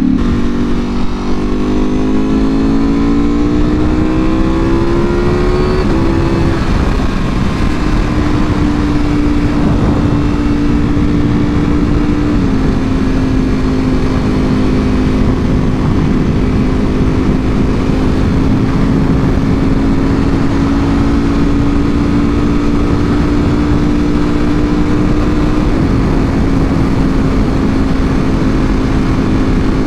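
Ducati Panigale V4R's V4 engine through an Akrapovic full exhaust, pulling with revs climbing for about six seconds, then an upshift and a steady cruise with small steps in pitch about twelve and twenty-six seconds in.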